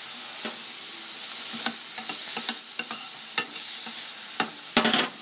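Onions sizzling steadily in a hot frying pan while a utensil stirs them, knocking and scraping against the pan a dozen or so times from about a second and a half in, most heavily near the end.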